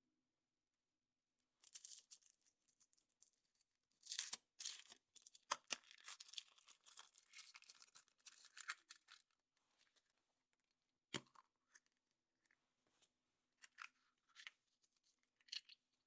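Foil wrapper of a chocolate surprise egg being torn and crinkled open, a dense papery crackle for several seconds, followed by a few separate sharp clicks and taps.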